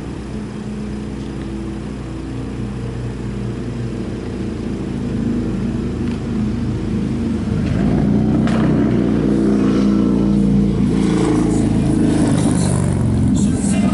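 A car engine running close by with a steady hum, growing louder about halfway through as if a vehicle is pulling up or accelerating past.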